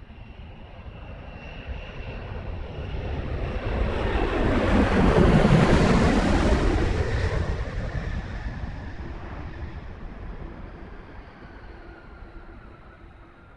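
An aircraft passing overhead: its engine noise builds to a peak about five or six seconds in, then fades away as its pitch drops.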